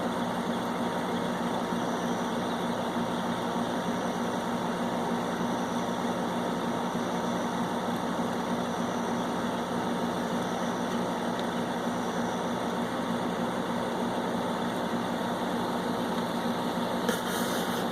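Window air conditioner running steadily, its compressor and fan humming as it blows cold air with its coils freshly cleaned. A brief knock comes near the end.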